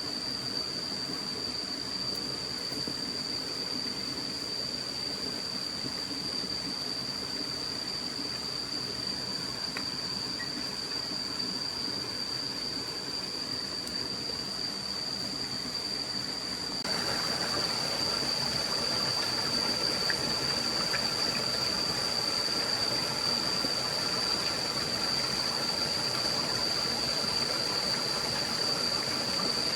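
Forest stream ambience: a constant hiss of running water with a steady high-pitched whine over it. It gets louder and fuller about seventeen seconds in.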